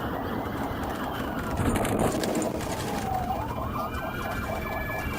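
Police car siren in a slow wail: its pitch falls over the first three seconds or so, then climbs again, over steady road and engine noise.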